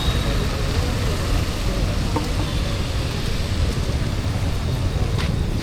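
Steady city street traffic noise: a continuous low rumble of passing vehicles, with a brief faint tick about five seconds in.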